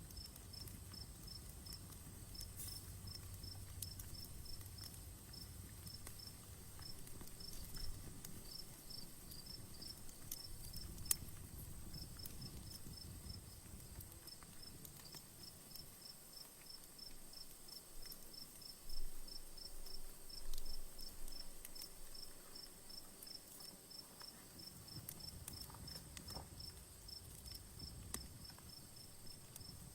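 A cricket chirping in an even, continuous run of short high chirps, over a quiet outdoor campfire that gives scattered sharp pops and snaps. The loudest snaps come about 11 seconds in and around 19 to 21 seconds.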